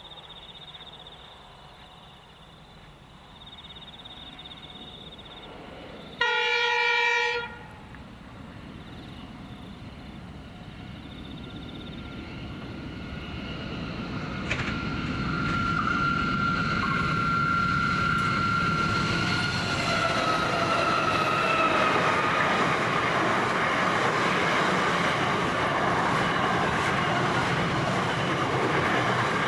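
A Pacific National NR class diesel-electric locomotive sounds one horn blast about a second long, about six seconds in. Then the container train grows steadily louder as it approaches, and a thin high squeal joins the rumble of locomotives and wagons from about halfway.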